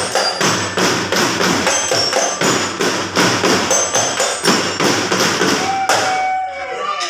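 Percussion playing a fast, steady beat of drum hits with jingling, stopping about six seconds in, with a few ringing tones fading after.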